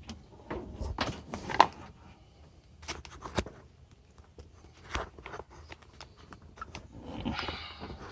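Irregular metallic clinks and knocks of hand tools and parts being handled during power steering pump removal, the loudest knock about a second and a half in. A brief scraping rustle comes near the end.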